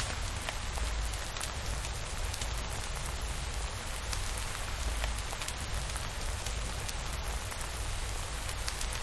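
Steady rainfall, an even hiss with scattered sharp drop ticks, over a constant low rumble.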